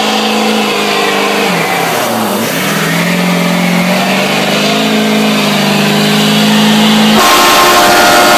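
Car engine running loud and revving: its pitch dips and climbs back about two seconds in, then jumps higher about seven seconds in.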